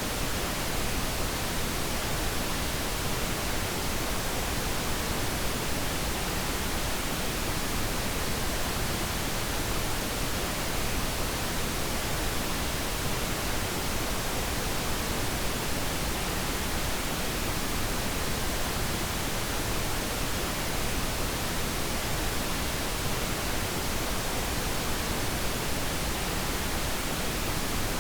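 Steady pink noise: an even, unchanging hiss spread across all pitches, used as a sleep-aid masking sound.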